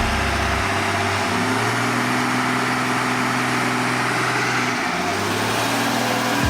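A motor vehicle engine running steadily, its low hum shifting in pitch a few times.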